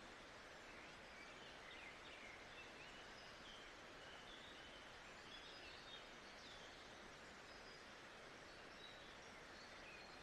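Faint nature ambience: a steady hiss with scattered short bird chirps.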